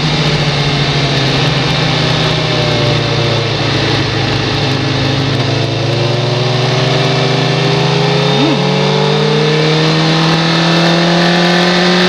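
Race motorcycle engine heard onboard, running at a steady, fairly low pitch under a rush of wind noise. From about halfway the pitch slowly climbs as the bike gains speed, with one quick rise and fall of revs about eight seconds in.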